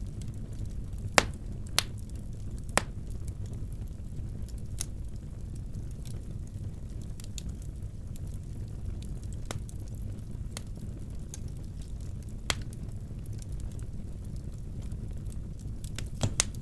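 Wood fire burning in a fireplace: a steady low rumble with scattered sharp cracks and pops. The loudest cracks come about a second in, twice more within the next two seconds, once around twelve seconds in and in a quick cluster near the end.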